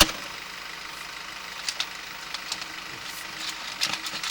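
Sewer inspection camera and its push cable being fed into the drain line: scattered clicks and knocks over a steady hum, with a cluster of knocks near the end.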